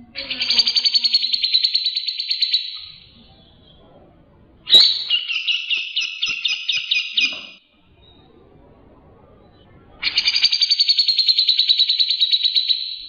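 Cucak jenggot, a bulbul, calling in three rapid chattering trills of about three seconds each, with short pauses between them. The second trill opens with a sharp upward note.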